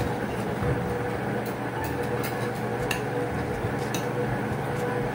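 A few light clinks of cutlery on plates over a steady low hum of room noise.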